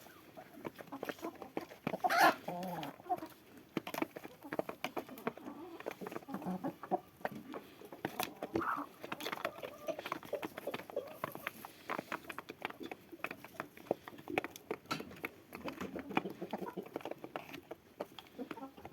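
Domestic chickens clucking, with one louder call about two seconds in, over a steady scatter of small clicks and taps.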